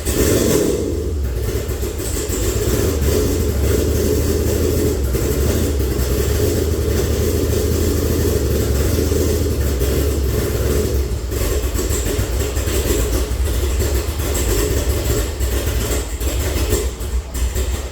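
C5 Corvette's V8 engine idling steadily, running while the newly installed automatic transmission is topped up with fluid.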